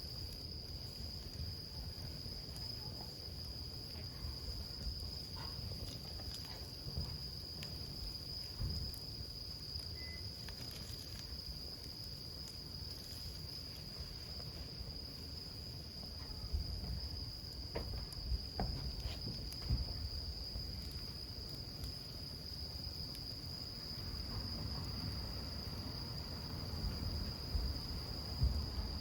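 Wood campfire burning, with a low rumble and scattered small crackles and pops. A cricket-like insect trills steadily on one high note throughout.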